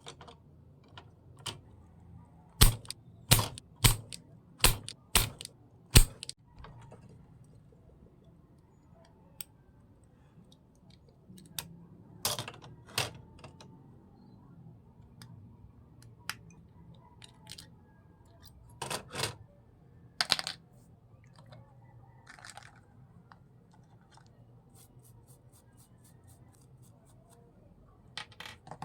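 A run of sharp clicks and taps from small tools and parts being handled on a workbench. About six come in quick succession a few seconds in, and scattered pairs and clusters follow later.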